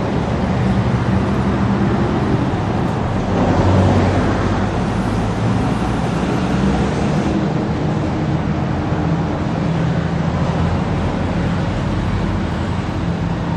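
Engine of a heavy construction vehicle running steadily, with a continuous low hum.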